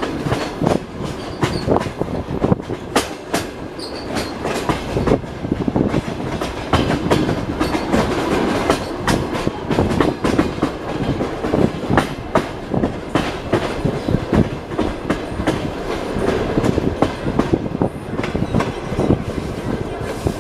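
Passenger train carriage running along the track: wheels clattering over rail joints with frequent sharp clicks and knocks over a steady rumble.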